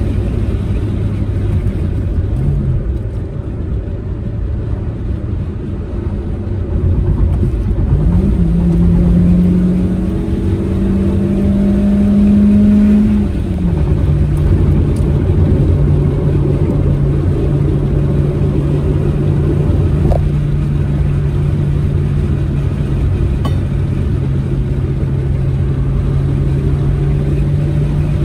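Proton Saga MC2's four-cylinder engine pulling a manual car along the road over a low rumble of road noise. About eight seconds in the engine note jumps up and climbs under acceleration for about five seconds. It then drops sharply at an upshift and holds a steady cruising note.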